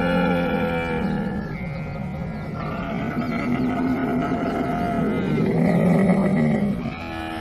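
Camel calling with long, drawn-out groaning bellows that run on one after another, loudest a little before the end, then dropping away.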